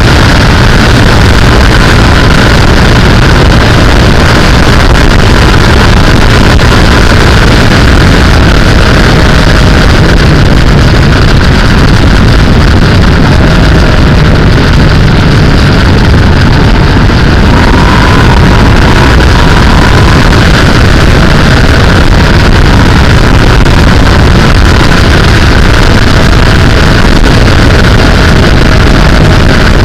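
Sportbike engine running steadily at road speed, loud throughout.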